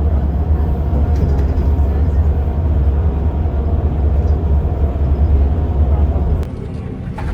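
Bus running on the road: a steady low rumble that drops suddenly to a quieter level near the end.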